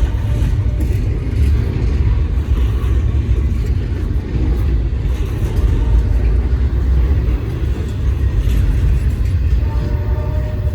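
Freight train running past with a loud, steady low rumble.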